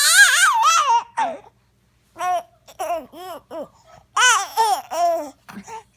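Baby babbling in high-pitched squeals and short rising-and-falling coos. A loud squeal opens it, then comes a pause, then a string of short coos from about two seconds in, louder near the end.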